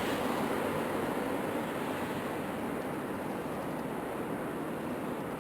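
Steady rushing noise of wind and street traffic while cycling, slowly fading.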